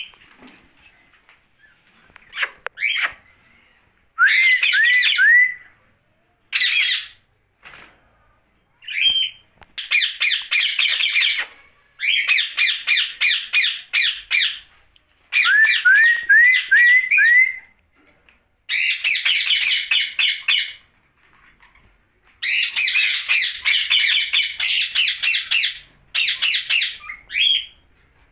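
Rose-ringed (ringneck) parakeet squawking: runs of harsh, rapid screeching calls a second or two long, broken by short pauses, with a few short rising whistled notes mixed in.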